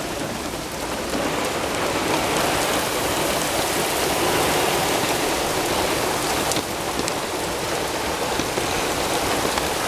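Heavy hurricane rain pouring down and splattering on surfaces, a steady dense hiss.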